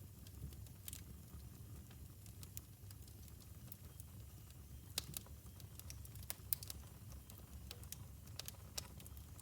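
Wood fire burning in a fireplace: a low steady rumble under scattered sharp crackles and pops, with a couple of louder pops past the middle.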